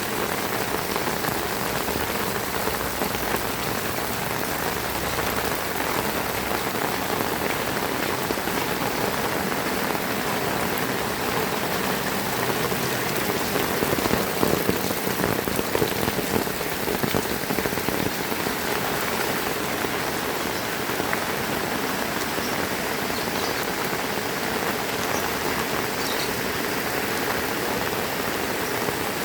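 Heavy rain falling steadily, a dense patter of drops on surfaces, growing a little louder for a couple of seconds about halfway through.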